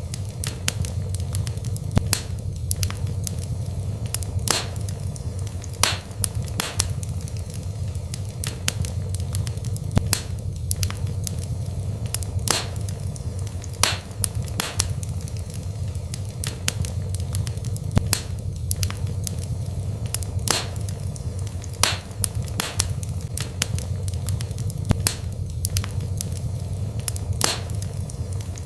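Wood burning in a fireplace: irregular sharp crackles and pops, several a second, over a steady low rumble.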